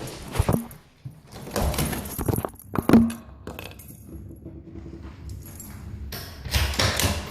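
Handling noise from a recording device carried by someone walking down to a basement: irregular clattering, rustling and jingling, with a sharp knock about three seconds in.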